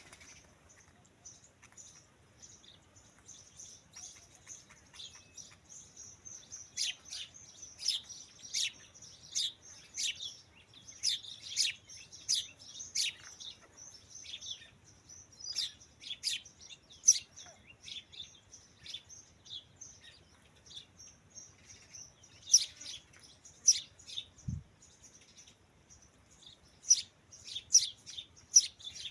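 Small birds chirping: many short, high chirps in quick runs, busiest in the middle and again near the end. A single brief low thud about three-quarters of the way through.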